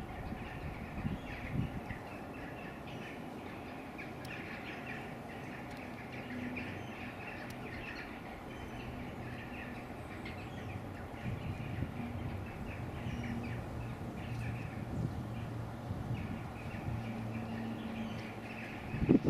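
Small birds singing and calling, with short chirps scattered throughout, over a steady low hum.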